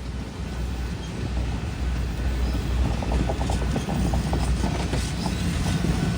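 A passing train rumbling, getting louder, with rapid clicking of wheels over the rail from about three seconds in.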